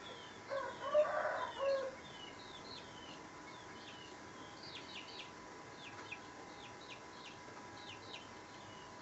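A rooster crows once, for about a second and a half, over a steady run of short, high chirps from small birds.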